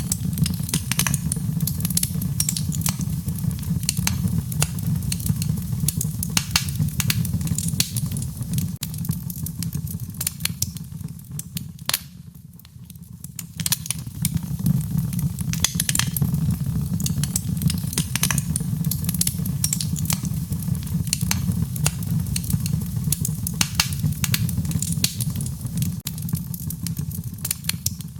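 Wood fire burning, with dense crackling and sharp pops over a low, steady rumble of flames. The crackling thins out for a couple of seconds about halfway through, then picks up again.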